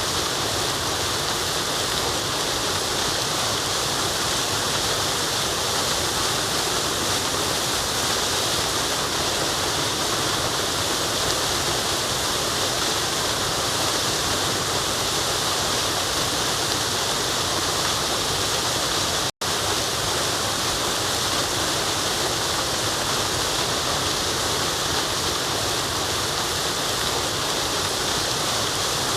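Waterfall rushing in a steady, dense roar of falling water. It cuts out completely for a split second about two-thirds of the way through, then resumes.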